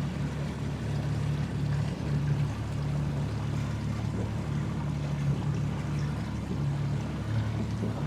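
Boat engine running steadily at low cruising speed, a low hum that swells and eases slightly every second or so, over a light hiss of water and wind.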